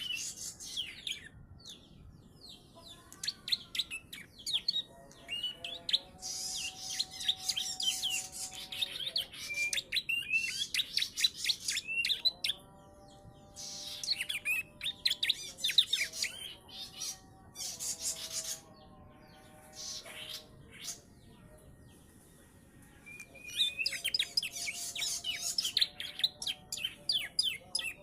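A young prenjak (prinia) singing in bursts of rapid, high chirps and trills, with short pauses between bursts and lower, held notes mixed in several times. Its song is filled in with imitated ciblek (bar-winged prinia) phrases.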